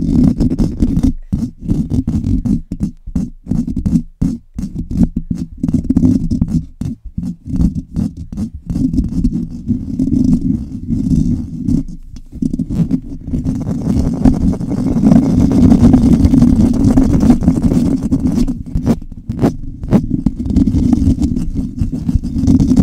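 Fast, aggressive scratching directly on a microphone, heard as a loud, dense low rumble. It is choppy, with many brief breaks, for the first half, then runs more continuously.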